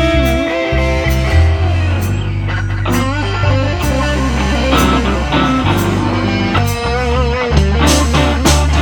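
Slow blues played by a band: an electric guitar lead with bent, wavering notes over bass and drums, an instrumental opening before the vocals.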